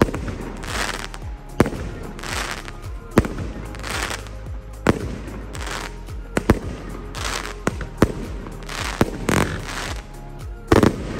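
Aerial firework cake firing shot after shot: a sharp bang roughly every second, alternating with short hissing, crackling bursts of the breaking stars. A louder report comes near the end.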